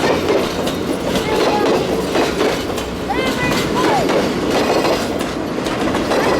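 Railroad cars of a passing train rolling by close at hand: a steady rumble with wheels clattering over the rail joints and several short, high squeals from the wheels.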